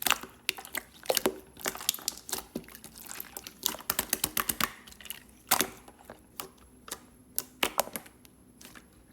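Clear slime being squished and pressed by hand, giving irregular wet clicks and pops. The pops come thick and fast for the first few seconds, then sparser, with a few louder ones.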